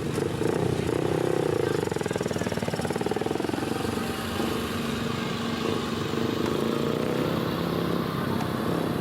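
Flat-track racing motorcycles running at speed on a dirt oval, their engines rising and falling in pitch with the throttle.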